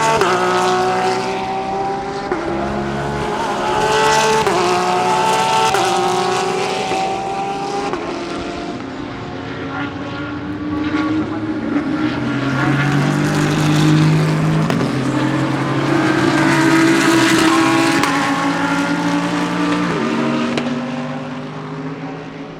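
Several GT3 race cars passing one after another at racing speed, their engines revving hard. The pitch steps up and down repeatedly with gear changes, and the sound swells several times as cars go by.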